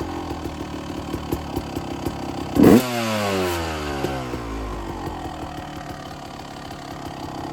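Honda CR250 two-stroke motocross engine idling, blipped once sharply about two and a half seconds in, the revs then falling back to idle. The warm engine answers the throttle quickly after a pilot-jet change to a 55.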